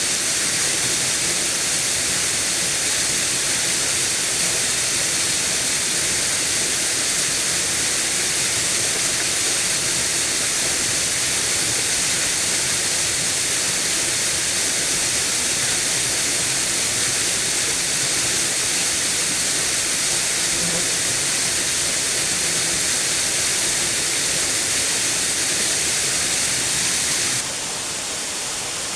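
Steady rushing hiss of falling water from a waterfall. It drops suddenly to a lower level near the end.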